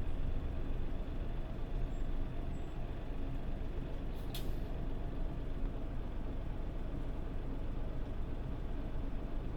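Tokyu city bus, a PJ-MP35JM-type Mitsubishi Fuso Aero Star, running steadily, its engine and road noise heard from inside the cabin. A short burst of air hiss comes about four seconds in.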